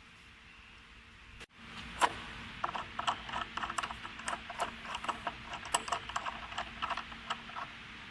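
Clamp hardware on a CNC router table being handled and fitted: a sharp click about two seconds in, then about five seconds of irregular light clicks and knocks, over a faint steady hum.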